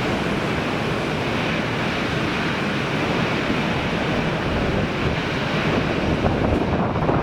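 Strong wind rushing over the microphone: a steady noise that grows a little louder near the end.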